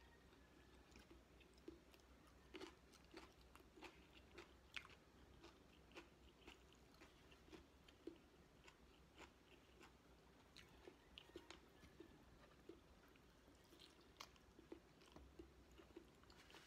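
A person chewing a mouthful of rice and chicken: faint, irregular wet mouth clicks and smacks, about one or two a second.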